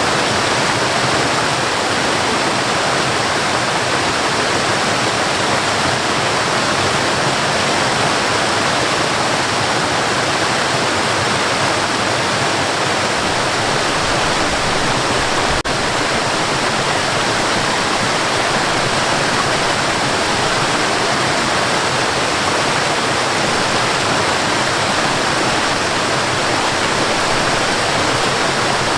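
Waterfall rushing steadily, an even unbroken roar of falling water, with a single faint click about halfway through.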